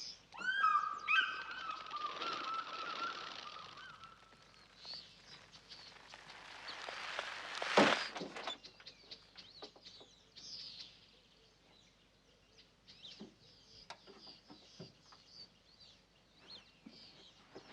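Animal calls on a film soundtrack: a run of honking, downward-gliding calls in the first few seconds. A rushing noise then swells to a loud sudden peak about eight seconds in, followed by scattered clicks and faint high bird chirps.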